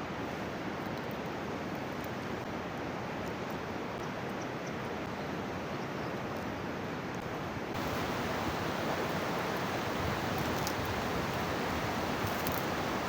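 Mountain stream water rushing steadily, a dense, even hiss; it gets louder and brighter about eight seconds in.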